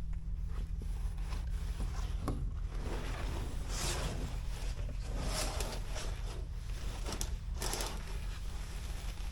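Rustling, clicks and scraping from things being handled inside a truck cab, over a steady low hum.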